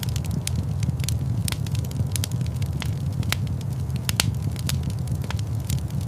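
Fire crackling in a fireplace: irregular sharp pops and snaps over a steady low rumble, with a couple of louder pops past the middle.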